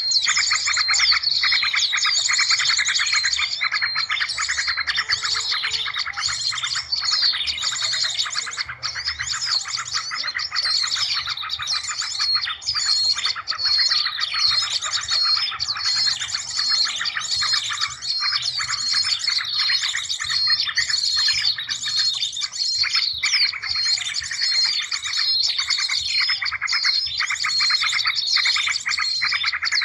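A dense, unbroken chorus of small birds' rapid chirps and trills, many calls layered over one another, with a faint low hum underneath. This is a bird-lure recording played to draw in small birds.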